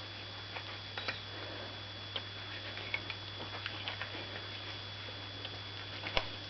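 Scattered small clicks and taps of a knife and fingers working on a gray partridge carcass as the second breast is cut free from the breastbone, with two sharper clicks near the end. A steady low electrical hum runs underneath.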